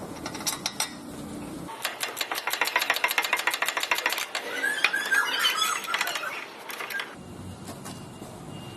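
Ratchet wrench clicking rapidly while the brake caliper bolts are run in, with a few short high squeaks in the middle; the clicking starts a couple of seconds in and stops suddenly near the end.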